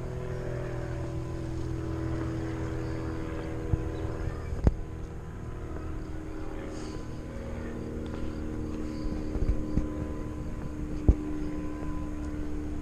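A steady engine drone whose pitch drifts slowly, with a few sharp knocks.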